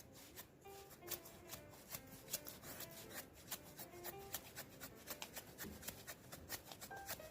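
A knife shaving a wooden stick into a feather stick, in quick, short scraping strokes, several a second, under soft music.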